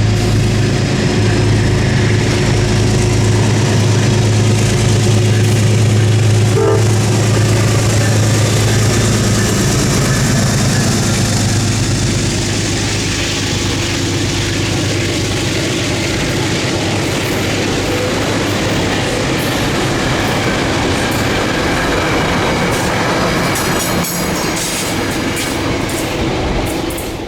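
A train passing close by. A loud steady drone for the first ten seconds or so gives way to rail noise, with a quick run of wheel clicks over the rail joints near the end.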